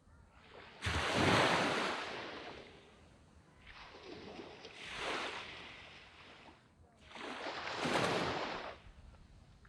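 Sea waves breaking and washing up on a sandy beach: three swells of surf, about three to four seconds apart, each rising and then fading away, the middle one softer.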